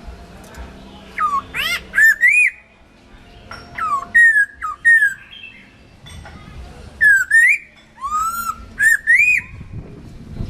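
Chinese hwamei singing: loud, clear whistled notes sweeping up and down, delivered in several phrases with short pauses between.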